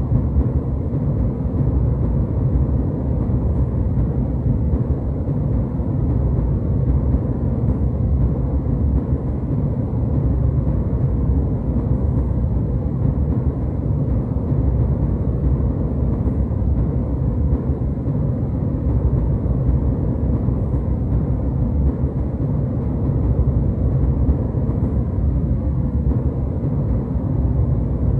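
Steady jet airliner cabin noise in flight: an even, unbroken low rumble of engine and airflow, with little treble.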